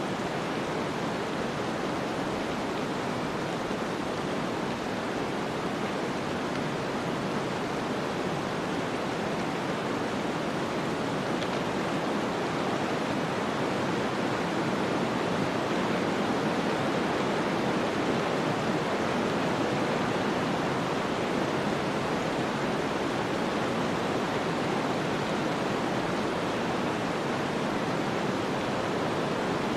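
Snowstorm ambience: a steady, even rushing of wind-driven snow, swelling a little around the middle.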